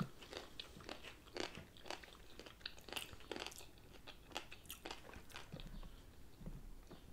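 Two people chewing sushi and poke bowl food: faint, wet mouth sounds with scattered small crunches and clicks, a few each second.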